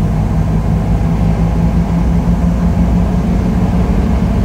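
1955 Ford Thunderbird's V8 engine running steadily as the car drives, heard from inside the cabin.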